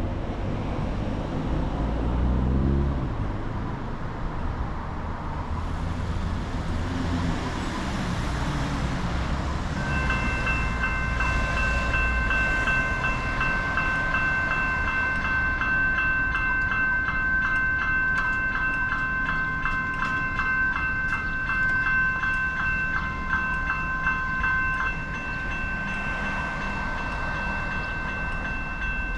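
Railway level-crossing bell ringing rapidly and steadily for about fifteen seconds, starting about a third of the way in, over a continuous low rumble of passing vehicles or a train. Before the bell, vehicle engines pass.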